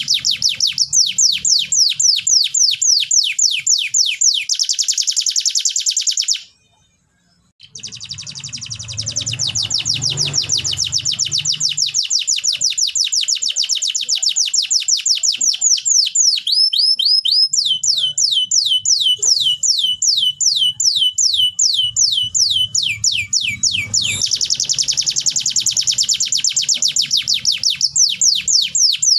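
Domestic canary singing long rapid trills of repeated downward-sweeping notes, changing from one trill to the next at different speeds and pitches. The song breaks off briefly about six seconds in, then resumes.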